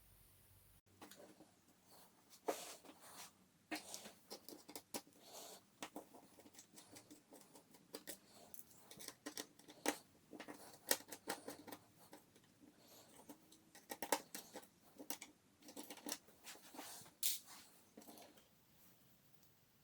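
Irregular small clicks, taps and light scrapes of a tool and small metal parts being handled during laptop disassembly, as an internal metal plate is taken out. The clicking stops near the end.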